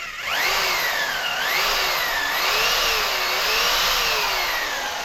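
Power drill running, its motor whine rising and falling as the speed varies. It is spinning the sanding tool used to rough up the inside of a sewer pipe before it is relined.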